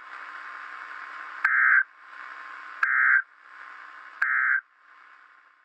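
Emergency Alert System end-of-message data bursts: three short digital squawks about a second and a half apart, over a steady radio hiss that fades away near the end.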